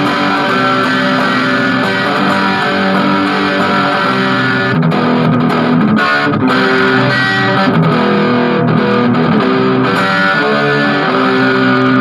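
Electric guitar played through an Orange Crush 20 solid-state practice amp on its dirty channel, with the gain turned down to 9 o'clock: distorted chords and notes held and changed every second or so, with a few short breaks between phrases.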